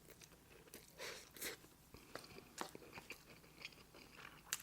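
Faint close-up chewing: a person eating, with scattered small mouth clicks and soft crunches, and one sharper click near the end.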